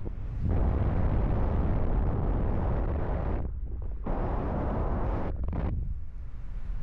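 Wind buffeting the microphone in flight under a paraglider: a heavy low rumble with rushing noise that drops away briefly twice, a little past three seconds in and again about five seconds in.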